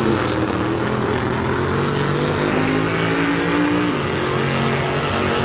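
A race car's engine at full throttle accelerating down the drag strip, its pitch climbing. About four seconds in the pitch drops at a gear shift, then climbs again.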